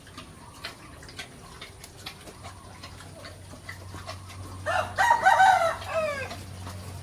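A rooster crowing once, about five seconds in, the call falling in pitch at its end, over faint scattered clicks.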